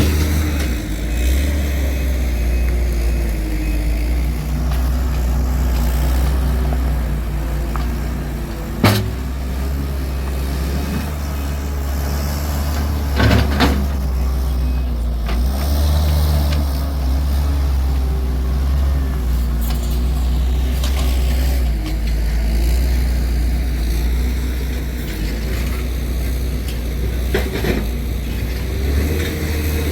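Heavy diesel work vehicle engine running steadily with a deep drone, with a sharp metallic bang about nine seconds in, a couple more knocks around thirteen seconds and a few lighter ones near the end.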